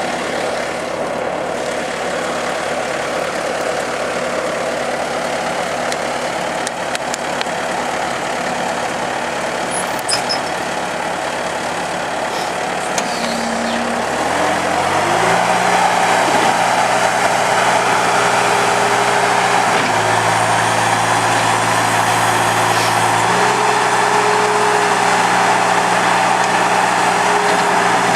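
Bobcat T300 tracked skid steer's diesel engine running steadily at low speed. About halfway through it revs up and holds at a higher, louder speed, with its pitch dropping for a few seconds and then rising again near the end.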